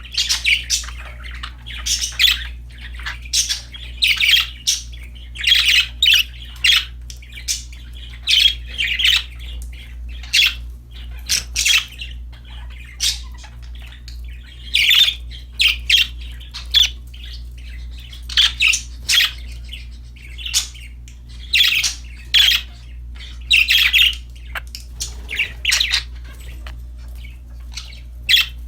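Budgerigars chirping and squawking in short, sharp calls that come in quick clusters with brief pauses, over a low steady hum.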